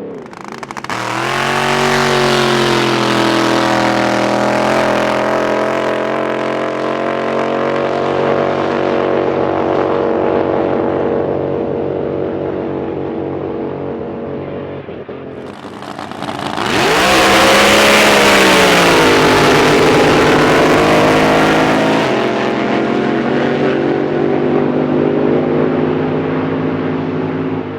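Racing drag boat engines at full throttle on two runs: each comes in suddenly, dips in pitch, then climbs and holds a steady high-revving note before fading. The second run, starting about halfway through, is the louder.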